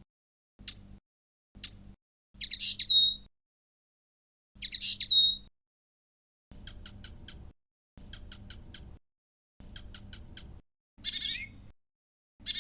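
Blyth's reed warbler giving short snippets of its song and mimicry, each one repeated with silence between. First come three single sharp notes, then twice a quick chattering phrase that ends on a clear high note. Then three times a rapid group of about four ticks, and last a harsher rasping phrase twice.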